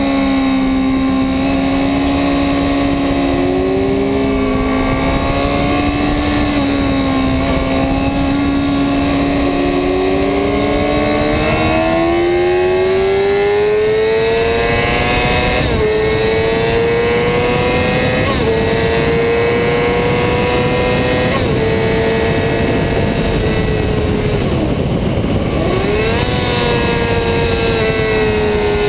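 2008 Yamaha R6's inline-four engine running hard at high revs, over a constant rush of wind noise. Its pitch climbs gradually through the middle, dips briefly a few times, then drops sharply and comes back up near the end.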